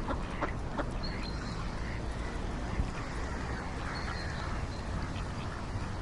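Ducks quacking, a few short calls within the first second, over a steady low rumble.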